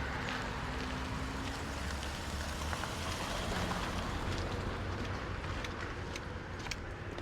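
Street ambience after rain: a steady rumble of traffic with a wet hiss, and a few light sharp clicks in the second half.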